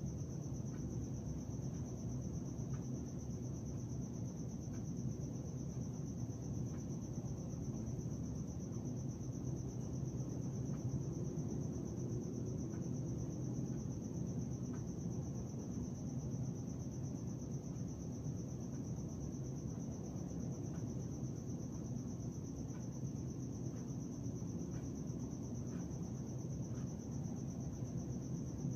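Night-time ambience: crickets trilling as one steady high note, over a constant low rumble.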